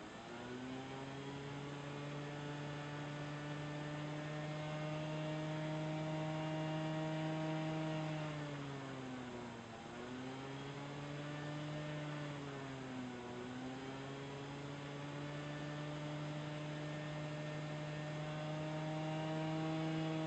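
Honda Gyro X scooter's 50cc two-stroke engine running at raised, fairly steady revs. The revs drop and pick up again about halfway through, then again a few seconds later, and climb slightly near the end.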